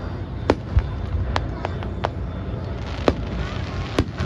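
Fireworks going off: a string of sharp bangs and pops, about eight in four seconds, over a low rumble.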